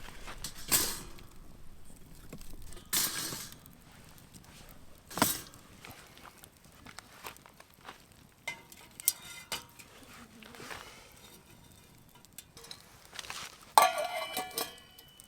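Camp cookware and gear being handled: scattered knocks and scrapes, then a burst of ringing metal clinks near the end.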